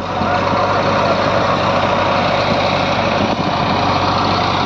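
Diesel engine of heavy machinery, a backhoe loader and tractors at work, running steadily with a constant low hum.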